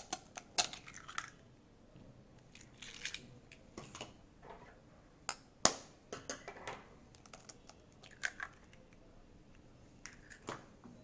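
Eggs being cracked against a bowl and opened into it: scattered sharp taps and clicks of shell on the bowl, with a louder crack a little past halfway.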